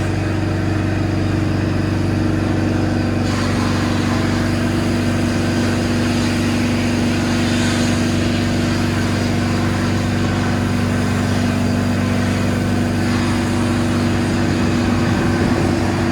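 A machine running steadily with a constant low hum. A higher hiss joins about three seconds in and drops away about three seconds before the end.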